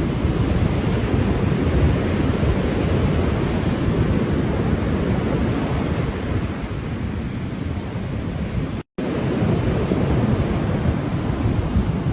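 Ocean surf washing in continuously, heaviest in the low end, with wind on the microphone. The sound cuts out for a split second about nine seconds in.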